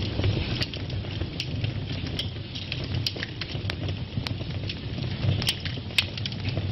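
Wood fire burning in a fireplace: a steady low rumble and hiss of flames with irregular sharp pops and crackles, two louder snaps near the end.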